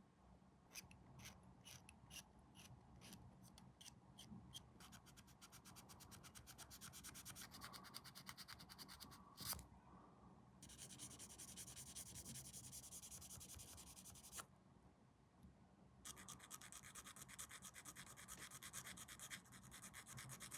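Faint quick strokes of hand sanding on a small plastic model-kit part, at first spaced, then in fast runs with a short pause between them. A single light tap about nine and a half seconds in.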